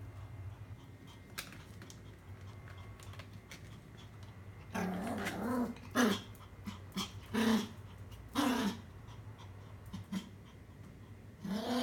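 Pomeranian growling in several short, wavering bursts from about five seconds in to about nine, and again near the end: a warning growl at another dog.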